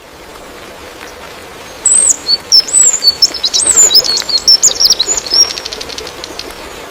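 A songbird singing a rapid string of high whistled notes that sweep up and down, starting about two seconds in and closing with a quick rattling trill, over a steady outdoor hiss.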